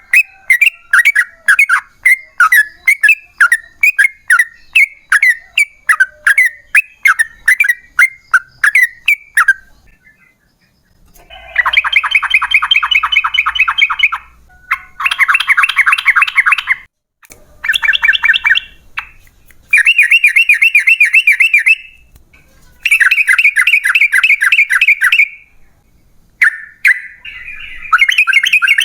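Yellow-vented bulbul (trucukan) singing: a quick run of short chirping notes, about three a second, for the first nine seconds or so, then after a pause a string of long, rapid rattling song phrases of two to three seconds each with short breaks between them.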